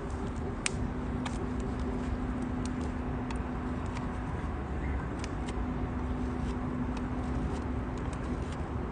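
Wood fire burning hard in a small nature stove: irregular sharp crackles and pops over a steady low rushing noise and a faint hum.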